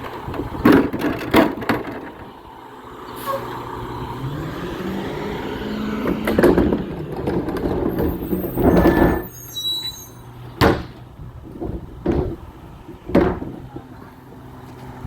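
Garbage truck engine running steadily, revving up a few seconds in, with a string of loud bangs and clanks, the longest and loudest about nine seconds in.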